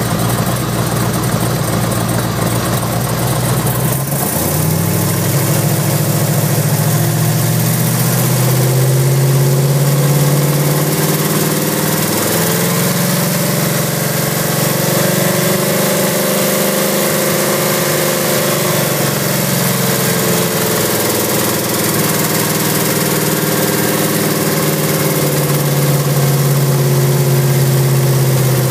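Pantera V8 engine idling, heard up close at its GM three-wire alternator, with the engine's pitch rising and falling gently through the middle. The alternator is vibrating violently on its mount, the cause of its repeated failures, which the owner has not yet found.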